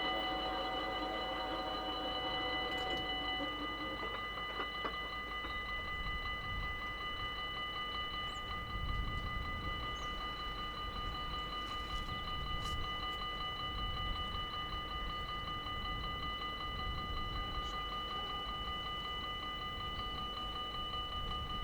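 Dutch level-crossing warning bells ringing continuously with fast, even strokes. A low rumble comes in about nine seconds in.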